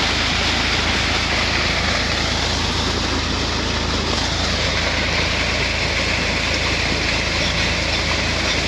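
Tractor engine running steadily, driving a tubewell pump, with a heavy flow of water gushing out of the bore pipe.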